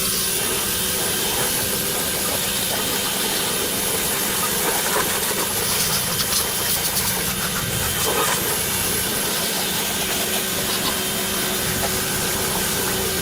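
A machine running steadily, an even hiss with a faint steady whine, holding the same level throughout.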